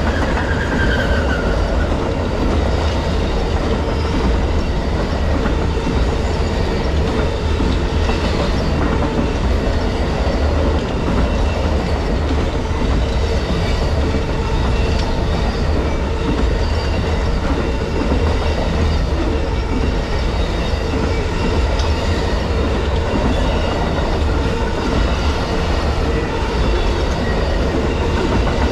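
Long passenger train's cars rolling past at speed: a steady rumble and clatter of wheels on the rails, with a brief faint wheel squeal about a second in.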